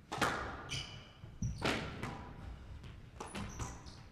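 Squash rally: two loud ball strikes against racket and wall ringing through the court, about a second and a half apart, then lighter knocks, with short high squeaks of players' shoes on the court floor between them.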